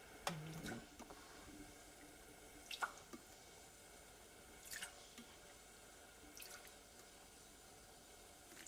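A few faint, sharp clinks and taps of a utensil against a cooking pot, spaced about two seconds apart, during sauce-making for yakitori.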